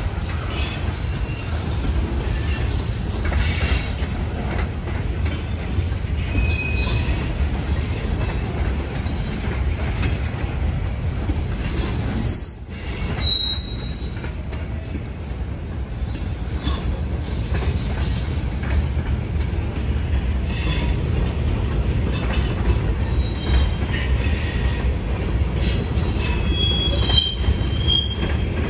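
Freight train cars rolling past: a steady low rumble of wheels on rail, with repeated clicks as the wheels cross rail joints and short, high-pitched wheel squeals now and then, the clearest about twelve seconds in and again near the end.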